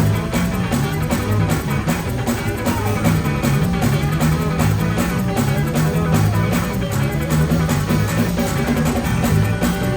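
Live gospel band playing: electric guitar over bass and drum kit, with a steady beat.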